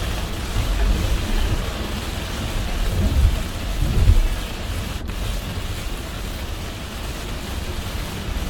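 Heavy rain and a car's tyre and road noise while driving: a steady rush of rain over a low rumble, which swells briefly twice, about three and four seconds in.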